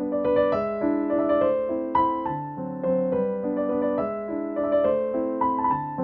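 Background piano music: a melody of single struck notes, a few to the second, over lower held notes.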